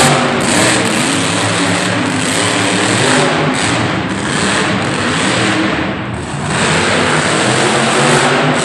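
Monster truck's supercharged V8 running hard, its pitch rising and falling as it is revved. It eases briefly about six seconds in, then picks up again.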